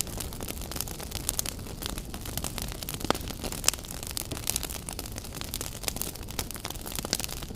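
Wood fire crackling, with many irregular sharp pops and snaps over a steady low rumble of burning.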